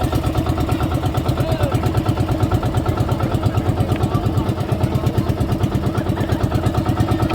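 Small boat's engine running steadily, with a fast, even chugging pulse.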